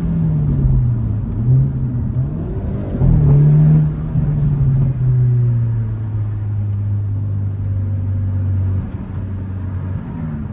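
Hyundai Elantra N's turbocharged 2.0-litre four-cylinder engine heard from inside the cabin while driving. The revs fall, blip, then climb to their loudest a few seconds in before easing into a steady drone that drops away near the end.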